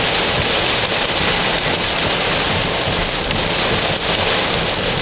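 Heavy rain falling, a loud steady hiss with no break.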